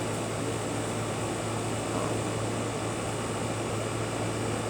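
Steady even background noise with a constant low hum underneath, unchanging throughout.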